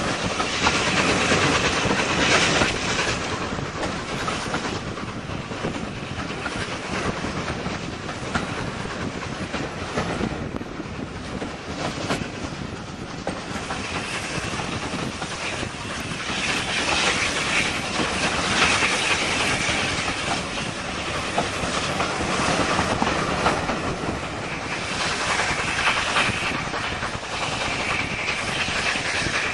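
Railway carriage running along the line: continuous wheel and track running noise, swelling louder a few times.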